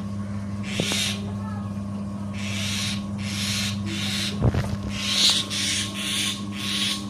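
Myna chicks giving harsh, rasping begging calls in repeated short bursts. A single thump comes about halfway through, over a steady low hum.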